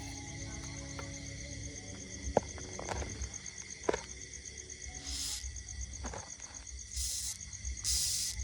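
Steady high-pitched insect trilling with an even pulse. Two sharp clicks come in the first half, and short bursts of high hiss near the end.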